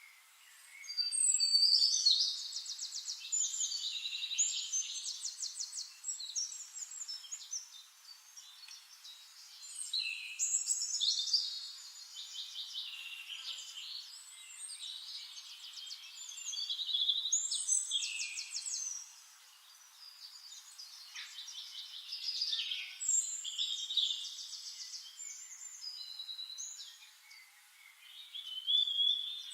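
A songbird singing long, complex phrases of rapid trills and warbles, each lasting several seconds, with short quieter gaps between them.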